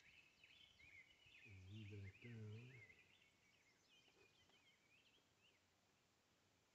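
Faint birdsong: many quick chirping notes sweeping up and down, thinning out after about five seconds. Two short low hums come about two seconds in.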